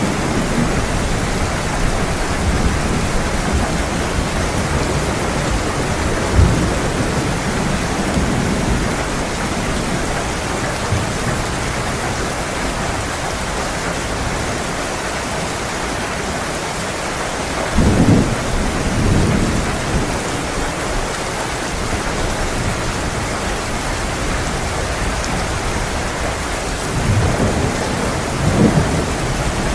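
Heavy rain falling steadily, with low rolls of thunder rumbling a little past halfway and again near the end.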